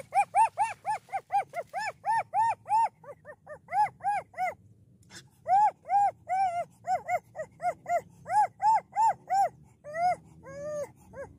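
A dog yipping in a quick run of short, high-pitched calls, about four a second, with a brief pause just under five seconds in; near the end the calls turn longer and lower, like whines.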